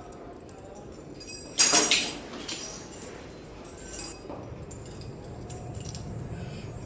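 Clinking and jangling, with one loud sudden clash about one and a half seconds in that rings away over half a second, then fainter scattered clinks over a low background hum.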